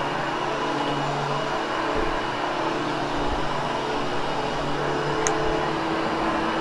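Hoover Hushtone commercial upright vacuum running steadily on its lower setting as it is pushed over damp, freshly cleaned carpet to groom the pile. It gives an even motor hum with a low drone.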